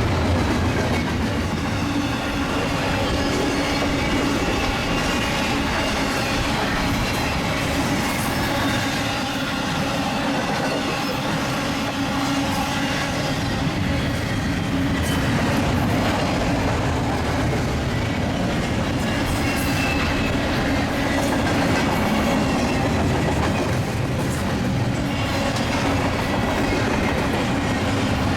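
Freight train cars rolling past at speed through a crossover, with a steady clatter of steel wheels over the rails and switch joints.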